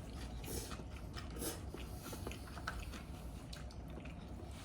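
Close-up eating sounds: chewing with small wet mouth clicks, and two brief noisy bursts about half a second and a second and a half in.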